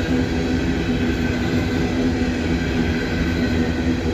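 An empty coal train's freight cars rolling past, a steady rumble of steel wheels on rail with a steady low hum running through it.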